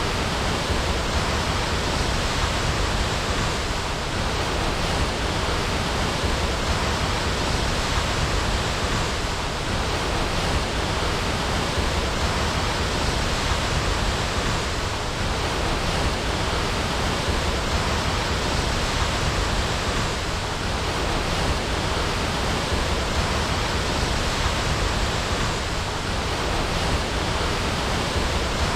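Waterfall: water falling and splashing in a steady, loud, even rush.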